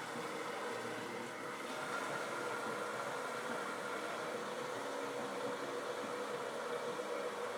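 Kitchen faucet running steadily into a soapy sink of dishes, a continuous hiss with a faint hum in it.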